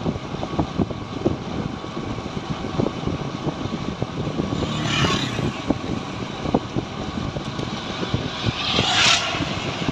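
Motorcycle riding along a road, heard from the rider's camera: a steady low engine-and-road rumble with frequent short knocks and crackles, and two brief hissing swells about five and nine seconds in.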